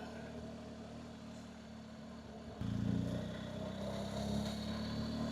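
BMW adventure motorcycle engine running steadily under way, a low even engine note heard from the rider's position. The note steps up abruptly and gets louder about two and a half seconds in, then holds.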